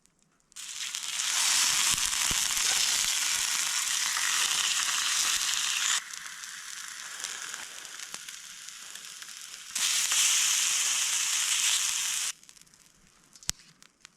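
Grouse meat sizzling on a hot griddle over a campfire. The sizzle is loud, drops to a softer hiss about six seconds in, comes back loud near ten seconds, then cuts off, with a single click just after.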